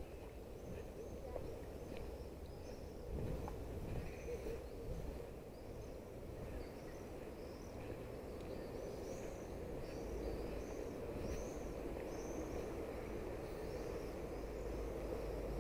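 Songbirds chirping, a run of short high calls that grows denser through the second half, over a steady low outdoor rumble.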